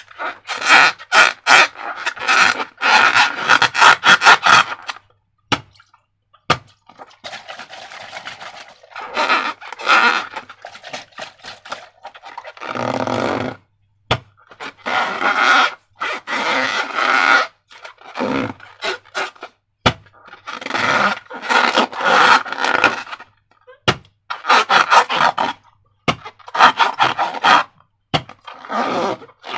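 Slime being squished and worked by hand, in repeated bursts of crackly, squelching noise a second or two long, with short pauses and a few sharp clicks between them.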